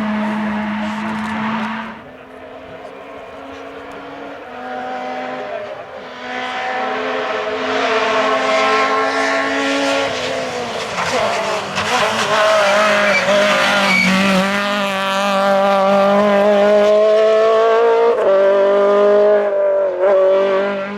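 Groupe F2000 rally car engine at full throttle, its pitch climbing through each gear and dropping sharply at the gear changes. It falls away about two seconds in, then grows steadily louder over the rest of the run.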